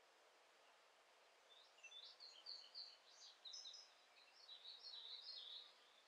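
A songbird singing faintly over a soft outdoor hiss: a quick jumble of short high notes begins about a second and a half in, breaks off briefly, then runs on until shortly before the end.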